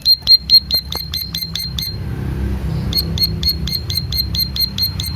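Ciblek sawah (plain prinia) singing a rapid run of short, high 'tiit' notes, about four to five a second. It breaks off for about a second in the middle, then picks up again, with a low rumble underneath.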